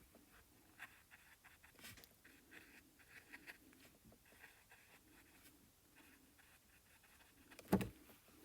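Faint, soft scratching and dabbing of a paintbrush putting acrylic paint onto canvas, with a single louder sharp click near the end.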